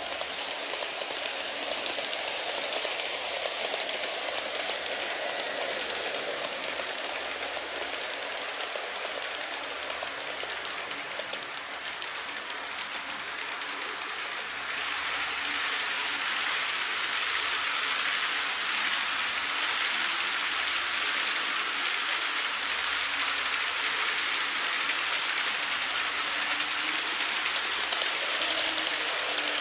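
Model train running on layout track: a steady rushing hiss of wheels and motor, laced with fine rapid clicks. It grows a little louder and fuller about halfway through.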